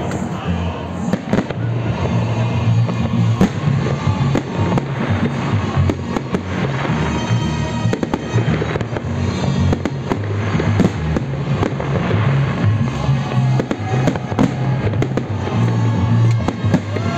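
Aerial fireworks bursting overhead, one shell after another, with crackling stars, while music with a pulsing bass plays underneath.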